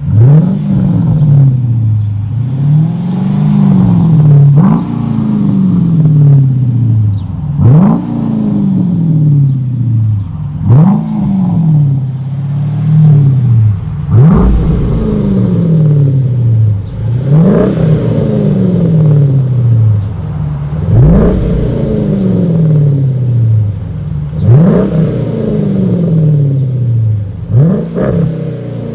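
2017 Dodge Durango R/T's 5.7-litre HEMI V8 blipped through a Street Demon stainless cat-back true dual exhaust with an X-pipe, about ten quick revs, one every three seconds or so, each rising sharply and falling slowly back to idle.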